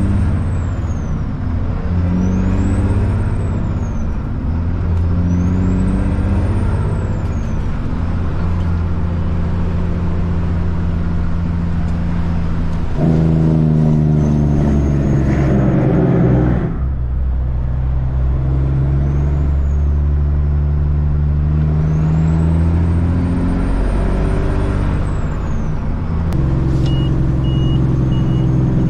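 Kenworth truck's Caterpillar C-15 diesel engine pulling through the gears, its pitch climbing and dropping back at each shift. It works harder and louder for a few seconds about halfway through, then cuts back abruptly. A short repeated beeping starts near the end.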